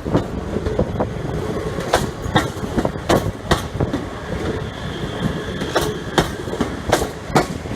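Train wheels clacking irregularly over the track at low speed over a steady rumble, with a faint high squeal in the middle.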